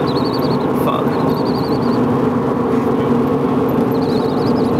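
Porsche 928 GTS's V8 running steadily under way, a constant drone, with a high warbling chirp that comes and goes three times.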